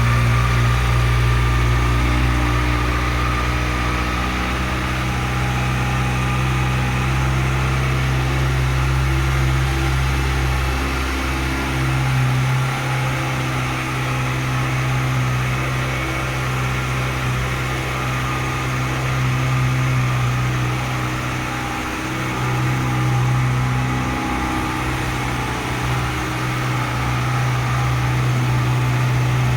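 Kawasaki Ninja ZX-6R's inline-four engine idling steadily.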